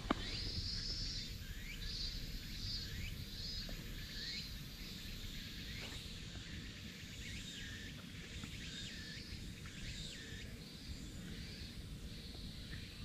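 Birds chirping in a long run of short calls, many with a quick falling hook, about two a second, over a steady low background rumble.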